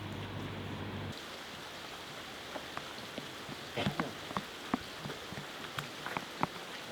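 Rain falling steadily, with single drops tapping sharply close by from about two and a half seconds in. The sound changes abruptly about a second in.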